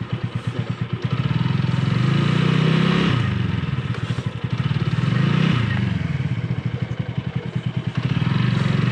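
Motorcycle engine revving up and falling back about three times while the rear wheel spins on packed snow and ice: the bike has no grip and is not moving forward.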